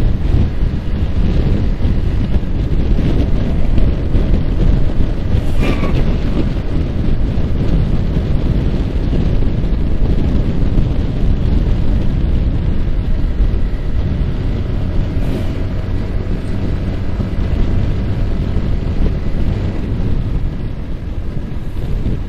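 Heavy wind buffeting on the microphone of a Yamaha R15 motorcycle riding at speed, steady throughout, with the bike's single-cylinder engine running underneath.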